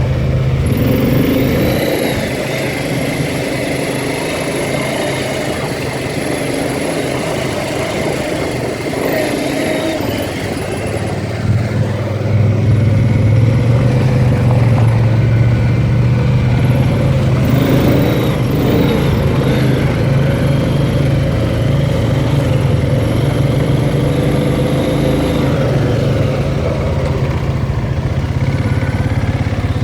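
Engine of an off-road vehicle running steadily while being ridden, getting louder about twelve seconds in and holding there.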